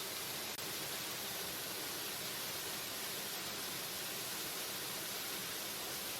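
Waterfall running: a steady, even rush of falling water, heavy in high hiss, with a momentary dropout about half a second in.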